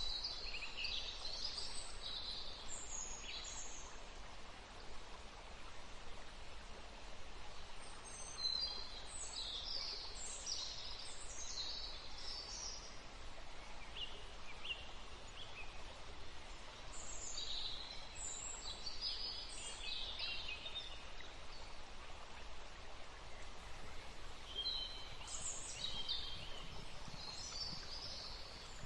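Birds chirping and calling in four spells of a few seconds each, high-pitched, over a steady outdoor background hiss.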